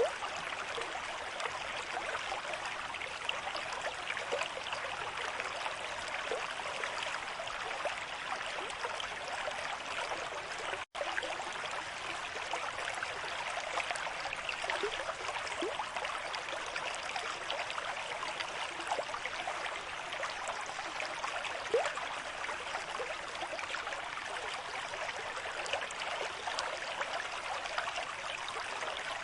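Stream with moderate flow: a steady rush of running water with small gurgles, cutting out for an instant about eleven seconds in.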